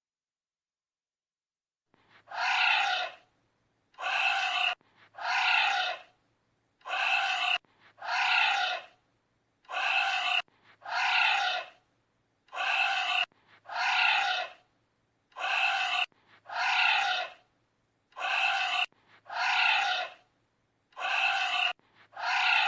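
Anteater calls: pitched calls falling in tone, in pairs of a short call then a longer one. The same pair repeats about every three seconds, starting about two seconds in.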